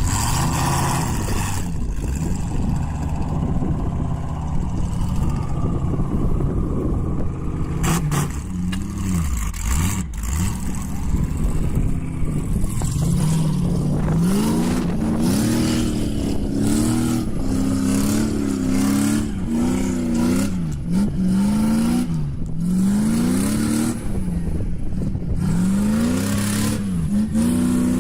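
A vehicle engine running, then revved up and down over and over from about halfway through, its pitch rising and falling roughly once a second.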